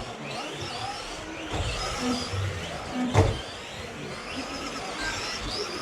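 Radio-controlled racing trucks running on the track, their motors whining in pitches that rise and fall as they accelerate and slow for the corners. A sharp knock a little over three seconds in.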